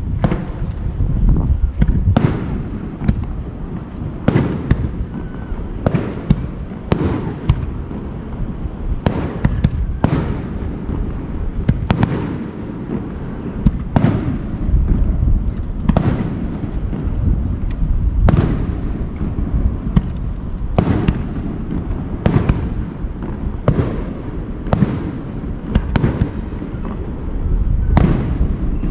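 Japanese aerial firework shells bursting in steady succession, a sharp bang every second or two over a continuous low rumble.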